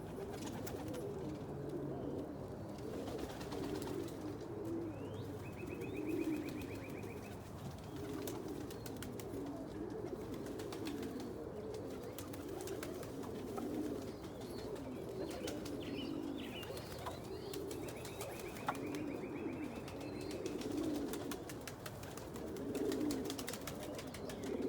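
Domestic homing pigeons cooing in a loft, several birds overlapping in a continuous low cooing chorus, with scattered light clicks.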